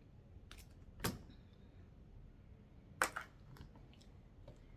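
A few sharp clicks and knocks of handling, the loudest about a second in and three seconds in, with fainter ticks after.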